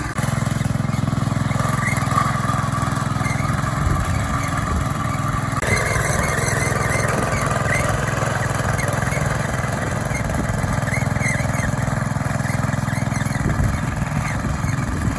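A vehicle engine running steadily at a low, even speed, with a slight change in its sound about halfway through.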